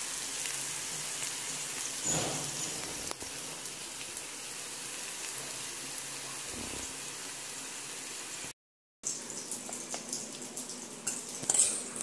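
Sliced ivy gourd (kovakka) sizzling in oil in a wide metal kadai, a steady hiss with a spatula scrape against the pan about two seconds in. After a brief dropout a little past eight seconds, the sizzle gives way to softer, scattered clicks and crackles.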